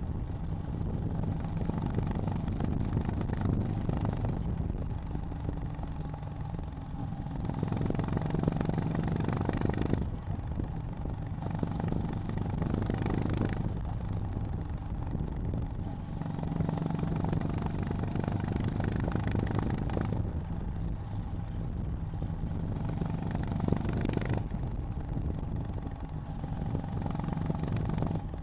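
Honda GB350's air-cooled single-cylinder engine running under way, its note swelling and easing several times as the throttle opens and closes, with a brief dip about ten seconds in.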